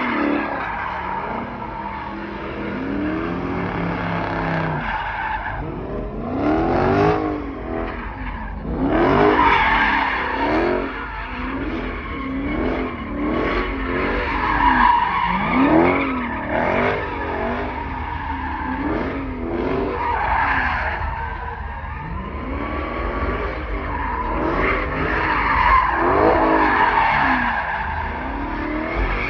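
Car engine revving up and down over and over while the tyres squeal continuously, as in a burnout or drifting.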